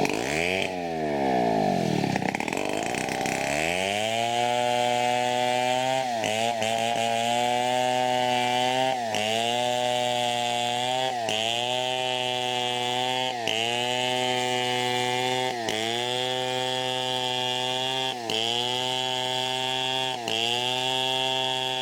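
Two-stroke chainsaw cutting teak wood. It revs up and down for the first few seconds, then runs at high speed with brief dips in pitch about every two seconds.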